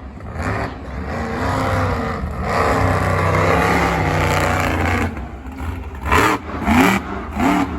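Monster truck engine running loud, swelling for a few seconds, then a few short sharp revs near the end.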